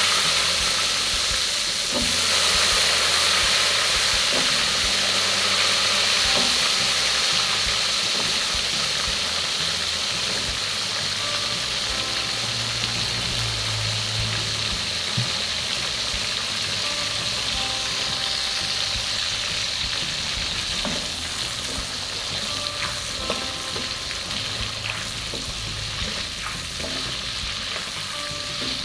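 Jengkol (dog fruit) pieces deep-frying in hot oil in a wok: a steady sizzle, loudest just after they go in and slowly easing. In the second half there are light scrapes and taps of a spatula stirring them.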